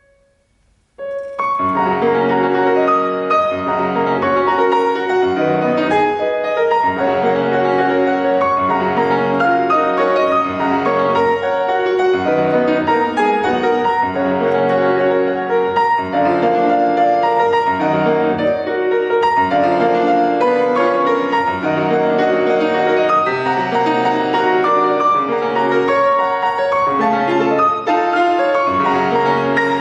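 Solo piano playing classical music. A held chord dies away into about a second of silence, then the playing resumes with a busy run of notes.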